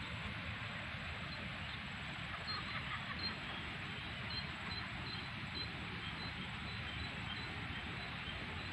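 Steady outdoor noise with a faint series of short, high chirps repeating about twice a second from a few seconds in: a small bird calling.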